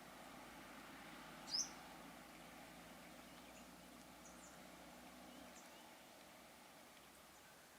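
A bird gives one short, sharp high chirp about a second and a half in, followed by a few faint chirps, over a quiet outdoor background with a faint low hum.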